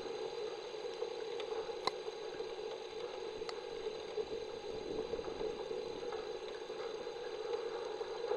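Steady rain: an even hiss with a few sharper ticks of single drops, the clearest about two seconds and three and a half seconds in.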